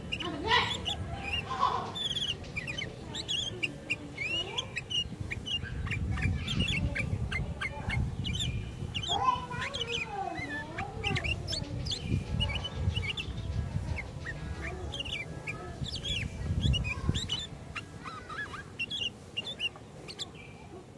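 Sooty-headed bulbuls (kutilang) calling, a busy run of short chirps and whistled notes that keep overlapping, with a few lower gliding calls around the middle.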